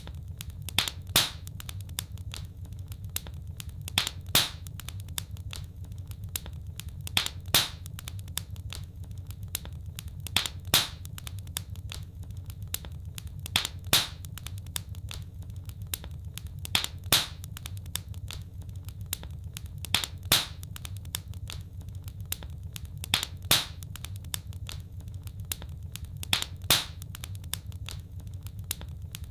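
Fireplace fire crackling: sharp pops, the loudest coming in pairs at an even beat about every three seconds, with smaller crackles between, over a steady low hum.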